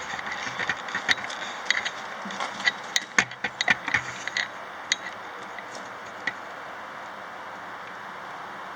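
Irregular sharp metallic clicks and clanks over a steady hiss, dense for the first four seconds or so, then thinning to a few single clicks.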